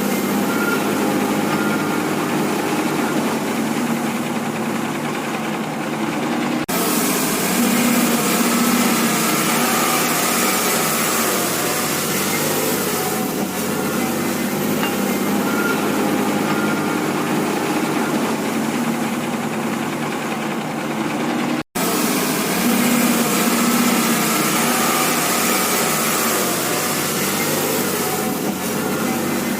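Engine running steadily, its pitch wavering slightly, with a sudden brief dropout about 22 seconds in.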